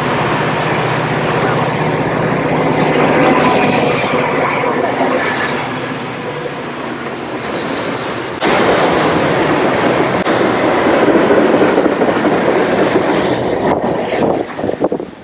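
A train passing close by on the tracks: a low engine drone in the first few seconds, then loud rolling wheel-and-rail noise with a brief high squeal, growing louder about eight seconds in and dying away near the end.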